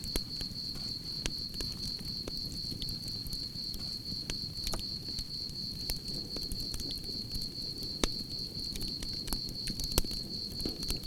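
Campfire crackling and popping, with a low rumble of flames underneath. Crickets chirp in a steady high trill behind it. Two sharper pops stand out, about eight and ten seconds in.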